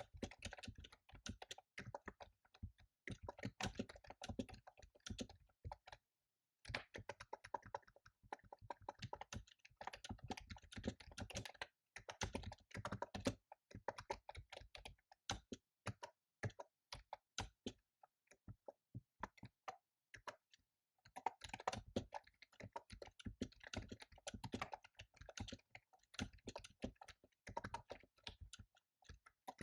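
Fast typing on a computer keyboard: quick runs of key clicks broken by short pauses, with brief gaps about six seconds in and again about twenty seconds in.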